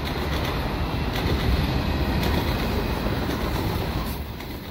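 Freight train's covered hopper cars rolling past on the track below: a steady rolling noise of steel wheels on rail with faint clicks. It eases off somewhat about four seconds in.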